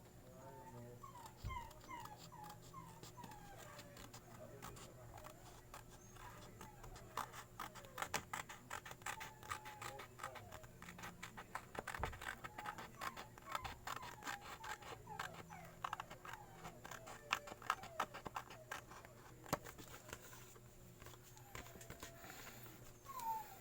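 A puppy whimpering in short, repeated falling cries. A dense run of light clicks or taps runs through the middle.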